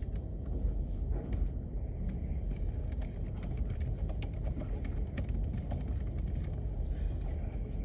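Typing on a computer keyboard: quick, irregular key clicks over a steady low rumble of room noise.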